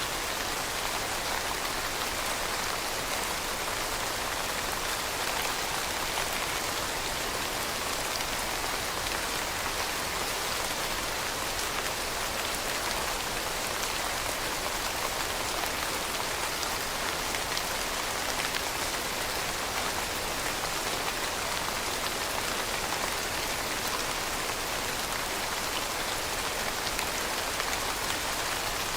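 Steady rain falling, a dense even hiss made of many small drop taps, with no breaks or changes.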